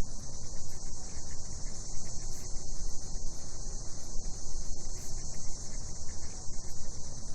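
Cicadas chorusing in one steady, unbroken high-pitched drone, over a low, uneven rumbling noise.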